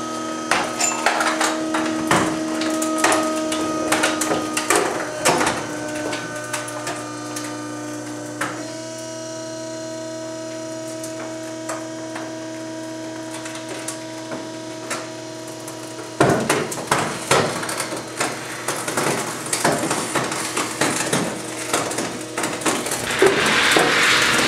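Trash compactor crushing a microwave oven. The machine hums steadily while plastic and metal give way in repeated sharp cracks and snaps. About two-thirds of the way through, the low hum drops away and the crunching becomes denser and louder.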